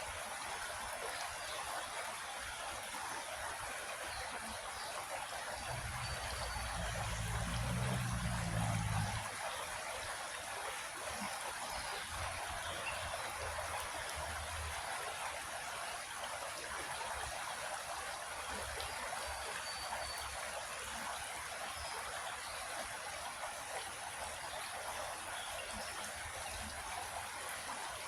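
Creek water flowing and trickling steadily. A low rumble swells for about three seconds a quarter of the way in, then fades.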